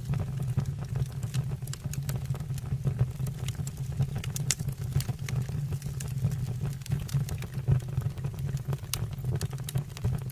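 Fire burning in a fireplace, crackling with frequent sharp pops over a steady low rumble of the flames.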